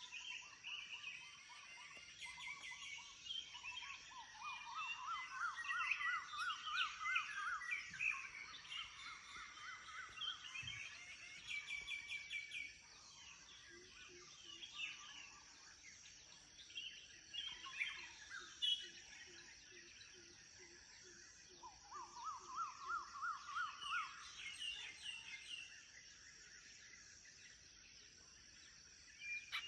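Morning chorus of several wild birds calling and chirping. It includes a rapid warbling trill that climbs in pitch, heard twice, and a run of low repeated notes in the middle. Under it runs a steady high-pitched insect drone.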